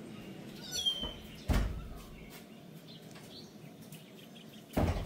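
A single short bird chirp falling in pitch about a second in, with two dull knocks, one about a second and a half in and one near the end.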